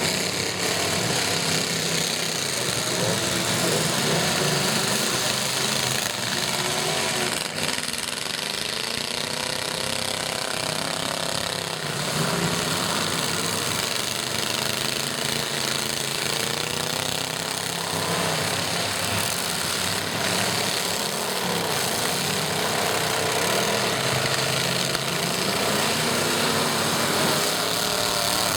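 Several demolition derby truck engines running loudly at once, their pitch rising and falling as they rev.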